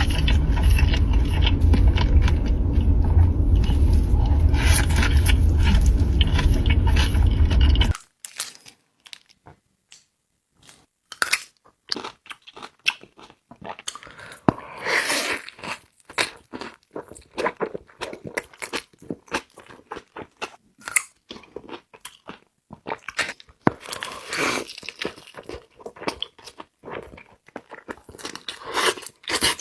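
Close-miked biting and chewing of In-N-Out burger and fries, irregular crunches and chewing clicks. For the first eight seconds it sits over a loud steady low rumble. That stops suddenly at a cut, leaving only quieter crunching bites and chews.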